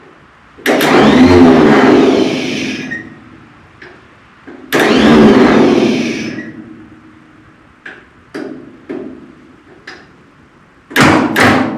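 Minneapolis-Moline tractor's starter cranking the engine in two loud bursts of about two seconds each, then a few clicks and two quick stabs of the starter near the end. The engine tries but does not catch, and the starter keeps cutting out on a bad connection.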